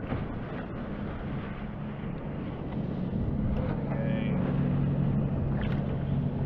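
A boat motor drones steadily over a noisy background, growing louder about three seconds in.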